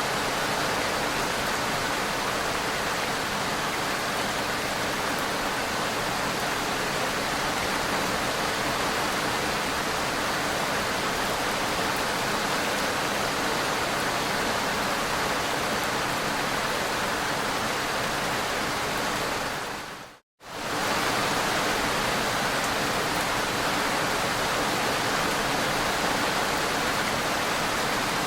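Steady heavy rain, a dense even hiss. About twenty seconds in, it fades out to a moment of silence and comes straight back, like the joint between two looped recordings.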